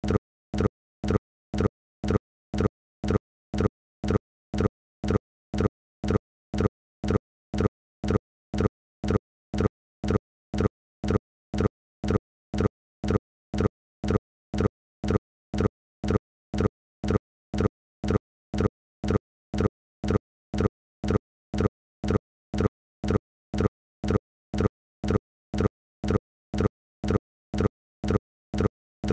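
Short low thuds repeating evenly, about two a second, with silence between them.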